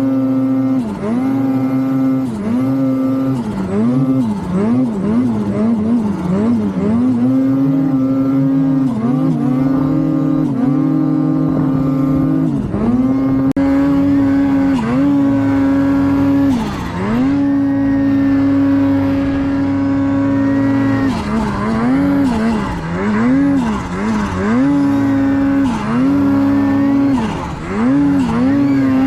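Ski-Doo snowmobile engine under way, the throttle worked on and off so the revs dip and climb again many times, with stretches held at steady high revs.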